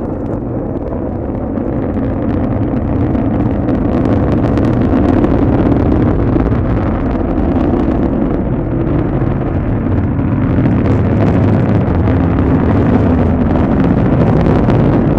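H3 rocket's engines at liftoff, heard from afar as a deep, crackling roar that grows louder over the first few seconds and then holds steady.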